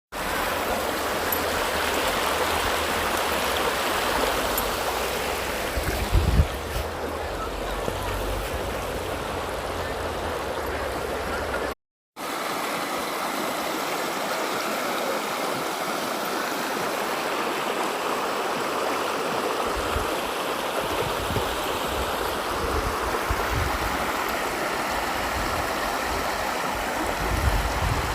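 Steady rush of flowing river water, with a brief low bump about six seconds in. The sound drops out for a moment about twelve seconds in.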